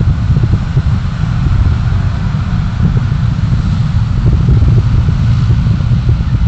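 Steady low rumble of a moving road vehicle, engine, tyre and wind noise mixed together, with a rapid flutter in the low end.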